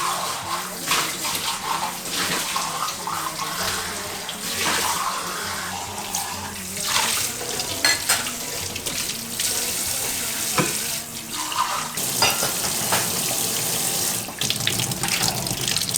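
Tap water running into a sink, with uneven splashing.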